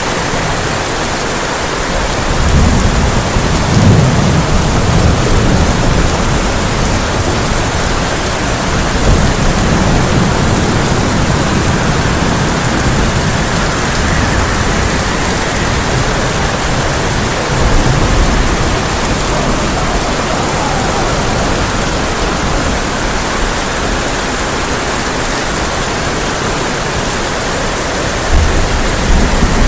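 Heavy rain falling steadily on a tin roof, with low rolls of thunder: a long one a few seconds in, shorter ones about a third and two thirds of the way through, and another starting near the end.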